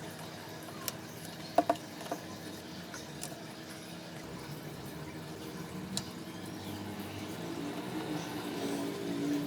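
Water heating in an electric kettle, a steady hiss that builds in level toward the end. A few light clicks come about a second or two in.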